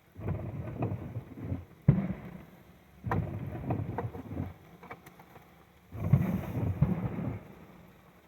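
Aerial fireworks shells bursting: four booms with sudden starts, each followed by rumbling and crackling that dies away over a second or two.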